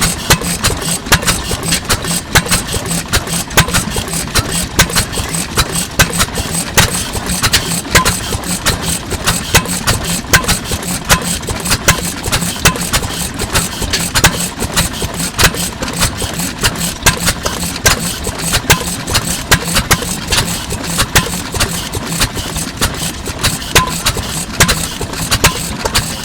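Circa-1923 Fairbanks-Morse Type Z 3 hp single-cylinder stationary engine running, with a steady run of sharp exhaust beats and mechanical clatter.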